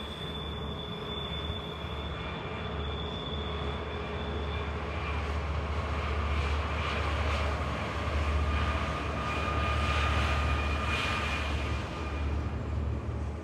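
BNSF diesel-electric locomotives pulling a westbound intermodal train of trailers on flatcars: a strong low engine drone with steady whining tones above it. It grows louder as the locomotives pass close, then carries on as the rumble and clatter of the train's cars rolling by.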